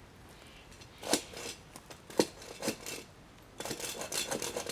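Hand saw cutting through a tree branch: a few separate rasping strokes, then a quicker run of strokes near the end.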